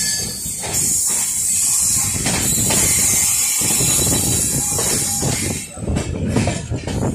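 Indian Railways passenger train heard from on board while moving: a steady low rumble of the wheels on the rails with a strong high hiss over it. Around six seconds in the hiss drops away and an irregular clatter of the wheels comes forward.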